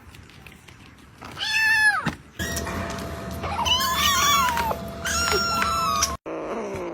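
A cat meowing: three drawn-out calls, each about a second long, the first about a second and a half in. A steady faint hum sits under the last two.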